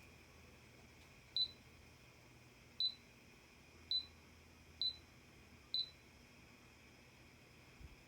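Sanyo SAP-252WR air conditioner indoor unit beeping five times, each a short high beep, about a second apart, as it acknowledges remote-control commands.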